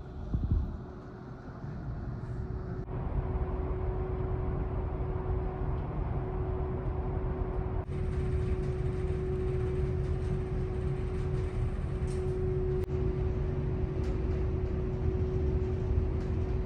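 Steady low rumble and constant hum of a large car ferry's engines heard inside the ship while underway. The sound changes abruptly twice, about three and eight seconds in.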